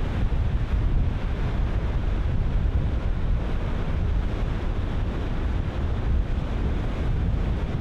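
Ocean surf breaking in a steady wash, with strong wind buffeting the microphone in a low, irregular rumble.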